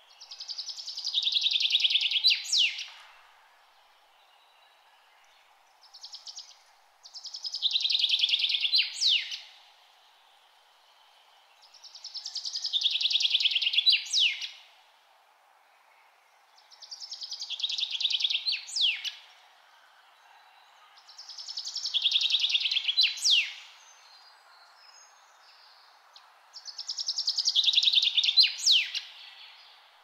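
A songbird singing the same short song six times, about every five seconds. Each song is a fast run of notes falling in pitch, ending in a couple of sharp high notes, over a faint steady background hiss.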